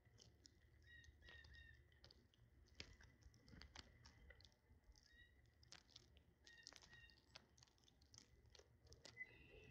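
Small birds feeding: faint, irregular pecking taps and clicks, with a few brief high chirps.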